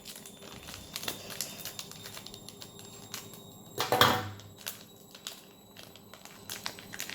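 Plastic toy packaging being handled and opened: scattered small clicks and crinkling, with a louder rustle about four seconds in.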